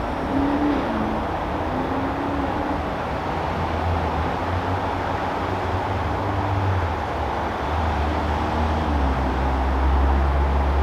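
Outdoor backyard ambience: a steady background rumble like distant traffic, swelling a little near the middle and end, with faint wavering tones now and then.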